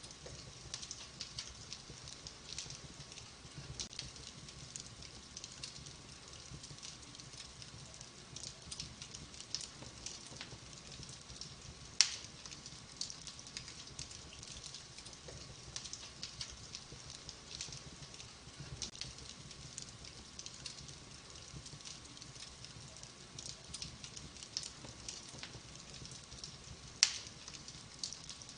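Fire burning in a fireplace, crackling with a steady scatter of small snaps. Two much louder pops stand out, about twelve seconds in and near the end.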